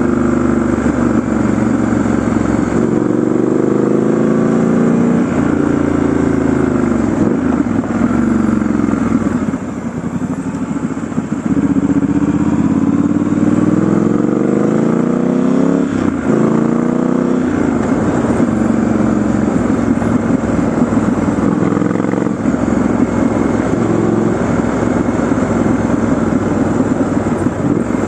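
Triumph Scrambler 1200 XE's parallel-twin engine running while riding. Its pitch rises and falls repeatedly through acceleration and gear changes. It drops off briefly about a third of the way in, then climbs again.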